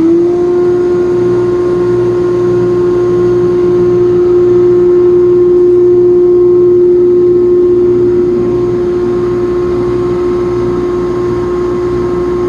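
A 1 hp Baldor buffer/grinder and its dust collector, driven by a 1/2 hp Baldor motor, running together at full speed: a loud, steady motor and fan hum with one strong tone. The dust collector has just spun up, settling at speed right at the start.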